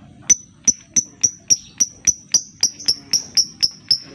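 Lovebird giving a long run of about fourteen sharp, high ticking chips, about four a second and evenly spaced: the ticking 'ngetik' call.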